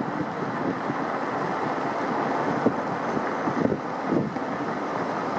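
Boeing 787 airliner's jet engines giving a steady roar, with wind buffeting the microphone in irregular gusts.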